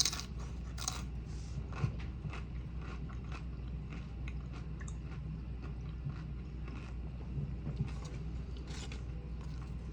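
Close-miked chewing and biting of a person eating a burrito bowl: wet mouth sounds with scattered short clicks and some crunching, over a steady low hum.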